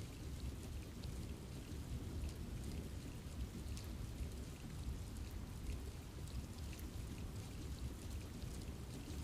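Steady rain falling in a forest, a soft low rumble with scattered drops ticking on leaves.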